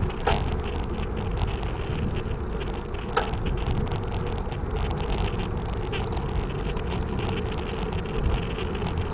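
Wind rumbling on the microphone with road noise from a bicycle being ridden, steady throughout. Two short sharp sounds stand out, about a quarter second in and about three seconds in.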